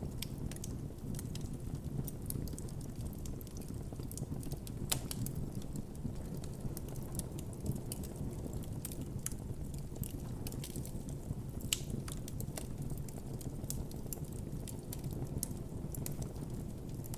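Campfire burning with a steady low rumble of flame and frequent sharp crackles and pops from the burning wood, a couple of louder pops along the way.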